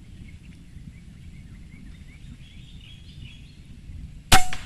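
A single air rifle shot about four seconds in: one sharp crack with a brief ring. Before it, a steady outdoor background with faint bird chirps.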